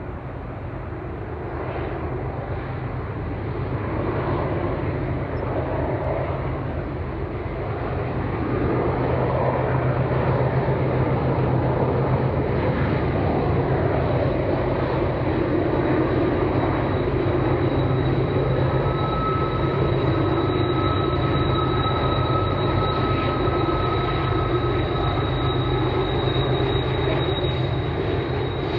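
A train rumbling past: steady locomotive engine hum and the noise of wheels on rail, growing louder about eight seconds in, with a thin high squeal joining around two-thirds of the way through.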